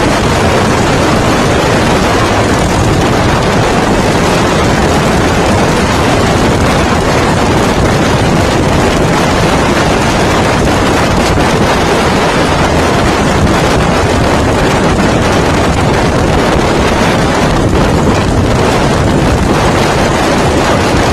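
Loud, steady wind noise buffeting the microphone over the noise of a bobber motorcycle on the move.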